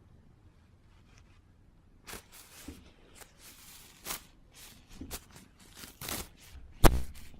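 Tissue paper rustling and crinkling in short, irregular bursts as a cat plays with it, with one sharp thump near the end.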